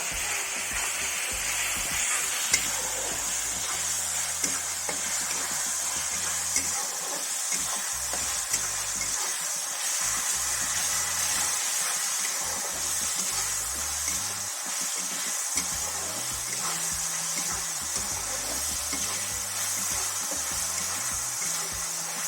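Ginger-garlic-coriander paste frying in hot oil in a kadai: a steady sizzling hiss with occasional clicks of a spatula stirring against the pan. The paste's water is cooking off before the oil separates.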